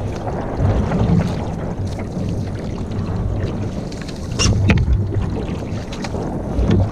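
Canoe on a lake: a steady rumble of water and wind on the microphone, with a sharp knock about four and a half seconds in.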